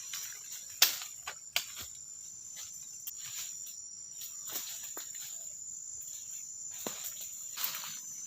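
Forest insects keeping up a steady high-pitched drone, with scattered sharp clicks and knocks over it, the loudest a little under a second in.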